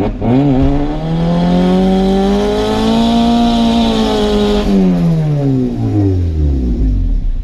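Turbocharged 1.8T four-cylinder of a VW Jetta Mk4 pulling up through the revs in one gear with a hiss over it. About four and a half seconds in the throttle lifts, the hiss stops and the revs wind steadily down.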